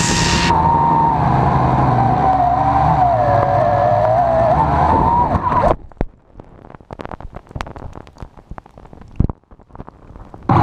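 Syma X8C quadcopter's motors and propellers whining, the pitch wavering up and down, then cutting off suddenly a little over halfway through. Scattered faint clicks and knocks follow.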